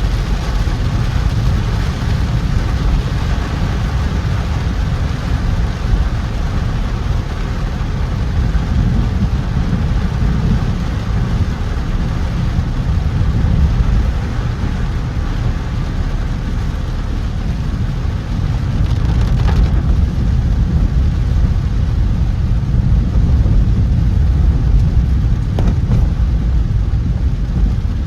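Car driving on a wet road in heavy rain: a steady low road rumble with the hiss of rain and tyres on water.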